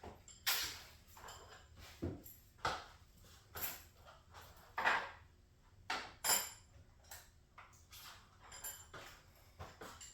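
Irregular light metallic clinks and knocks, a dozen or so at uneven spacing, some with a short high ring: metal tools and garage door hardware being handled.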